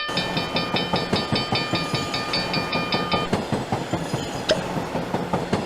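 Cartoon train sound effect: a fast, even rhythmic clatter of wheels on rails, with a high pulsing tone over the first half.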